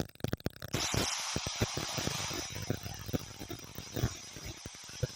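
A static-like hiss with scattered crackling clicks, starting about a second in and fading near the end, from the opening of the fan film's soundtrack.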